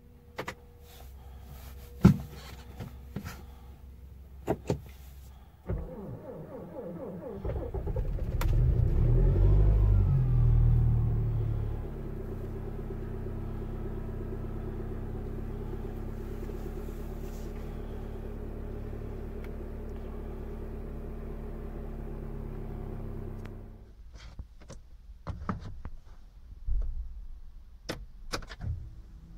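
Audi car engine cold-started in deep frost of about −28 °C: the starter cranks briefly, the engine catches and flares up loudly, then settles about six seconds later into a steady fast cold idle. The engine is switched off and stops about a second before the last handful of clicks near the end.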